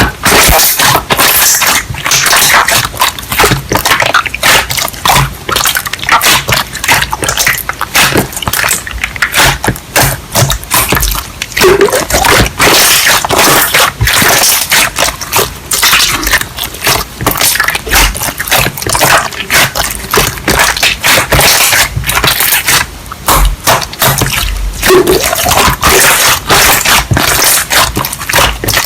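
Loud, dense, rapid crackling and clicking with a wet, liquid character, close to the microphone.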